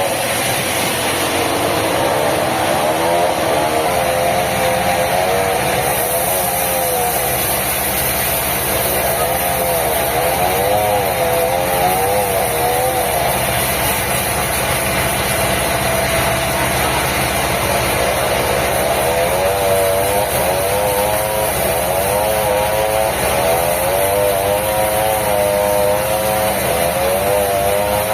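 Sawmill machinery running steadily: a low engine hum under a higher whine that wavers up and down in pitch.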